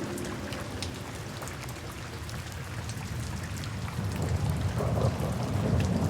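Steady rain falling, with scattered drops pattering, and a low rumble of thunder swelling from about four seconds in.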